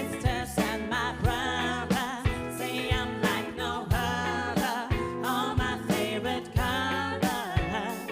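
Live funk and soul band playing: a sung line with strong vibrato over regular drum hits and a steady bass line.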